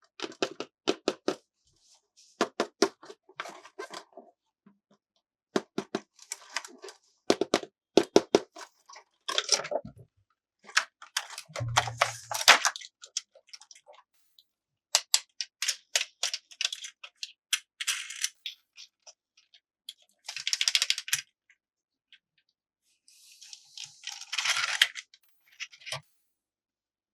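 Plastic toy pieces and packaging being handled: quick runs of sharp clicks and taps, with a few short crinkling rustles.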